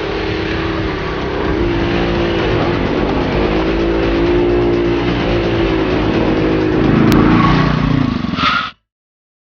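A 350cc quad bike engine running and revving, its pitch rising and falling. It cuts off suddenly near the end.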